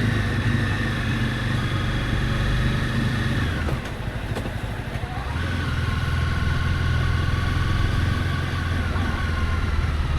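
Honda CB300F's single-cylinder engine running under way. About three and a half seconds in the revs fall and the sound dips, then it picks up again and runs steadily at a slightly lower pitch.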